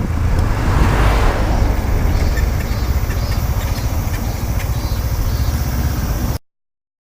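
Honda CB125T's two-cylinder engine running with wind and road noise while riding. The sound cuts off suddenly about six seconds in.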